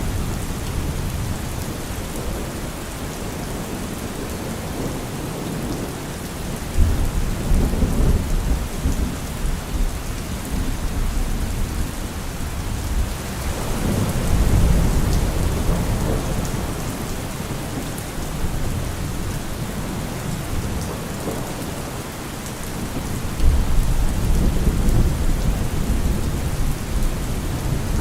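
Steady rain falling, with thunder rolling in three low rumbles: one about seven seconds in, one around the middle, and one near the end.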